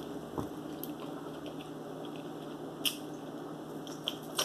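Mouth sounds of someone chewing food: a few short, wet smacks and clicks over a quiet room, with a sip from a glass near the end.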